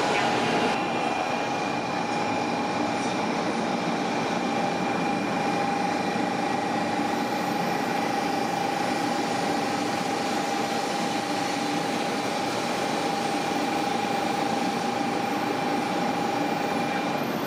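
500 series Shinkansen train moving along a station platform: even rolling noise with a steady whine that holds one pitch and stops shortly before the end.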